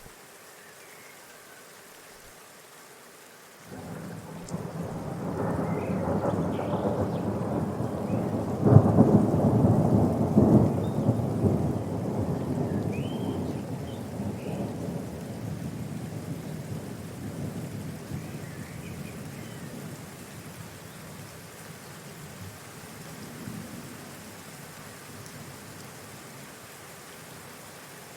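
A roll of thunder over steady rain: it starts suddenly a few seconds in, swells to its loudest about nine seconds in, then rumbles away slowly.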